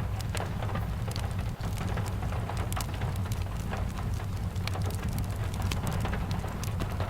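Steady rain with a wood fire crackling in a fireplace: scattered sharp pops and ticks over an even hiss and a constant low rumble.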